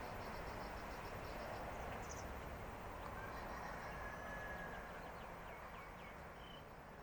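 Small birds chirping over a steady outdoor background noise: a quick run of short high chirps, then scattered calls and a brief held whistle. The whole sound fades slightly toward the end.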